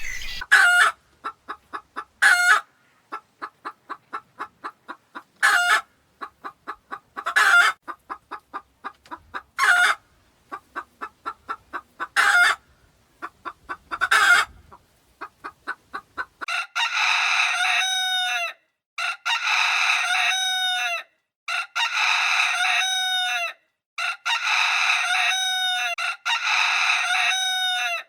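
Chicken calling: a run of rapid clucks broken every couple of seconds by a louder call, then from about halfway a series of long, loud calls one after another.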